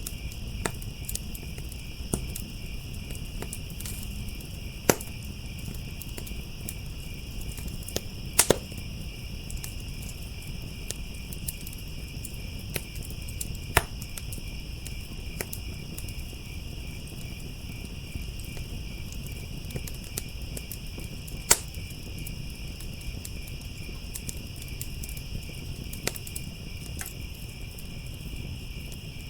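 Crickets trilling steadily and continuously beside a crackling wood fire, which gives sharp pops every few seconds, among them a quick double pop about eight seconds in.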